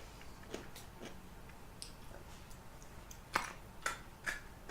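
Close-up eating sounds of someone having chicken and rice soup: quiet chewing with scattered small mouth clicks, and three sharper clicks in the second half.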